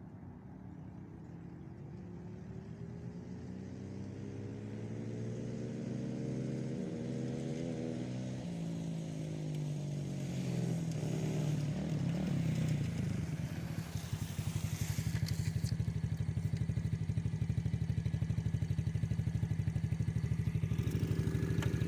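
A small engine gets louder as it comes closer, its pitch climbing over several seconds. From about two-thirds of the way through it settles into a steady, evenly pulsing idle close by.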